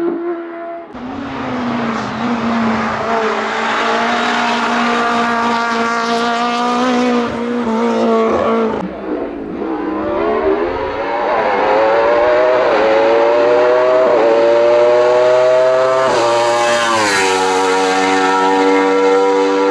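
Racing car engines at full throttle, the engine note climbing in pitch and dropping back at each gear change. The sound changes abruptly about a second in and again about 9 seconds in, as from one car's pass to another.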